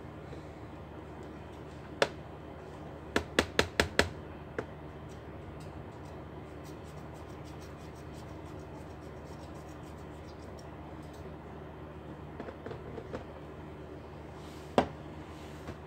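Sharp clicks and taps of hard plastic laptop parts and tools being handled on a workbench: a quick run of about five near the start, a few scattered single ones, over a steady low hum.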